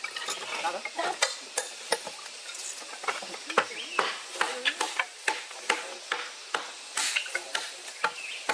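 Hard objects clicking and scraping against each other in quick, irregular strokes, two or three a second, over a light steady hiss.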